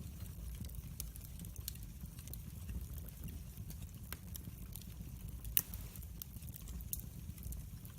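Wood fire burning in a fireplace: a low, steady rumble of flames with frequent sharp crackles and pops from the burning logs. The loudest pop comes about five and a half seconds in.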